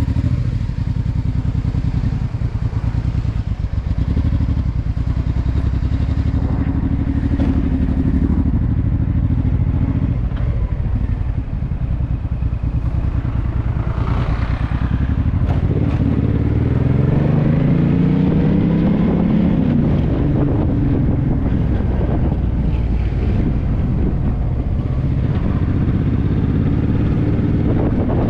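Honda NT650V Deauville's V-twin engine running through an aftermarket Dominator exhaust while riding. The engine note holds steady, then climbs in pitch for several seconds about halfway through as the bike accelerates, before dropping back.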